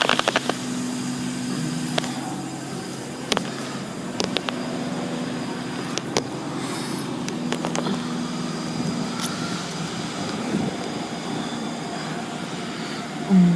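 A steady low machine hum, with scattered sharp clicks and knocks and one short loud sound near the end.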